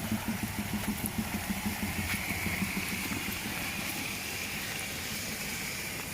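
A motorcycle engine running at low revs, its rapid pulsing fading over the first few seconds, over a steady hiss of rain. A faint high steady whine comes in about two seconds in.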